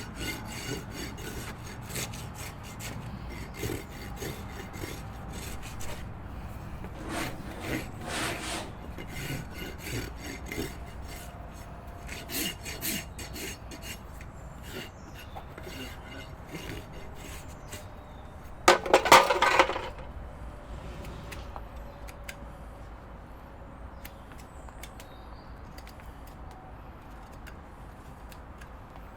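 A farrier's rasp filing a horse's hoof in repeated irregular scraping strokes, with one louder burst of about a second roughly two-thirds of the way through.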